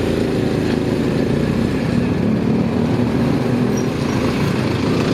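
Motorcycle engine running at a steady note while the bike rides along a street.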